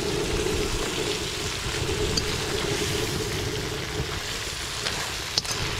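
Blue crab halves sizzling in hot oil in a steel wok, with a few light clicks of a metal spoon stirring them, under a steady low rumble of wind on the microphone.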